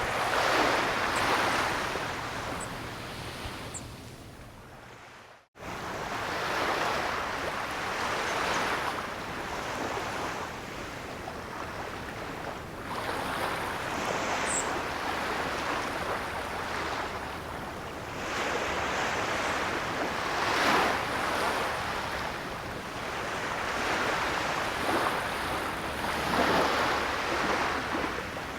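Ocean surf: waves breaking and washing in, swelling and ebbing every several seconds. About five seconds in the sound fades away and drops out for a moment, then the surf resumes.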